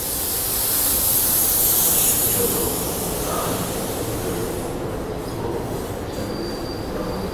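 SEPTA Regional Rail electric train running into a station past the platform: a loud rushing hiss along the passing cars over a steady rumble, easing off after about four and a half seconds. From about five seconds in, a thin steady high squeal from the wheels or brakes takes over as the train pulls in.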